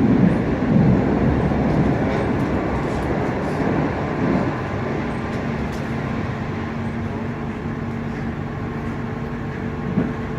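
Interior noise of a Frankfurt U-Bahn car: a rumble that eases off over the first few seconds, then a steady low electrical hum from about halfway, with one short knock near the end.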